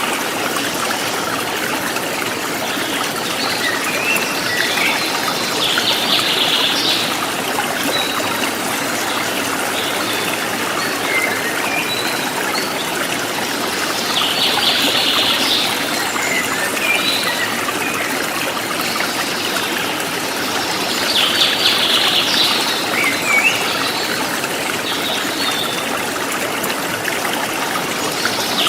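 A river stream flowing and trickling over stones, with small birds chirping above it now and then.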